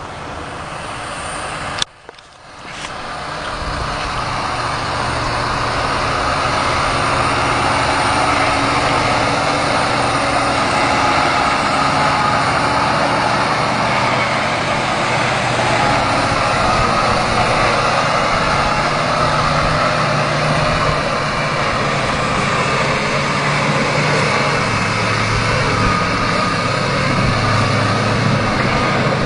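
Scania truck's diesel engine running steadily, hauling an oversize load. A sharp click and a brief drop in sound come about two seconds in.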